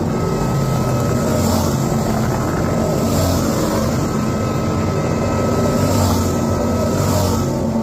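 Superbike engines running hard on a race circuit: a steady, dense engine din with a few brief swells.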